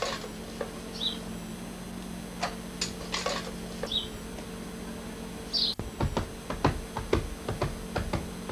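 Short bird chirps a few seconds apart over a steady low hum, with scattered clicks. From about six seconds in comes a quick run of thumps, like running footsteps on grass.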